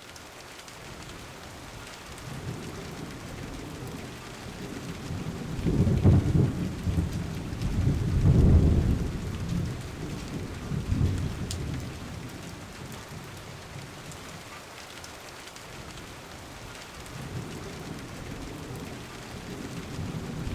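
Steady rain with low rumbles of thunder: the loudest peals come about six and eight seconds in, a weaker one follows, and another builds near the end.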